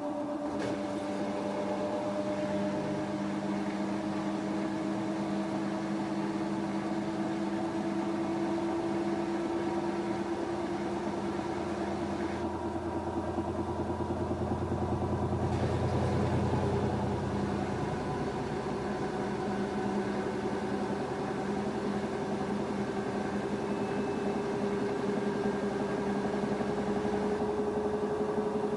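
LG F10A8HDS5 front-loading washing machine spinning its drum up, the motor whine rising slowly and steadily in pitch, with a low rumble that swells and fades about halfway through.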